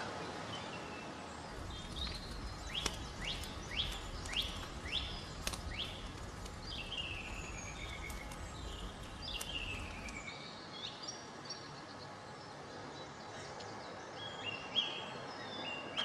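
Woodland birds singing: a quick run of short falling chirps, then longer downward-sliding notes, then scattered short high notes. A low rumble sits underneath and stops about ten seconds in.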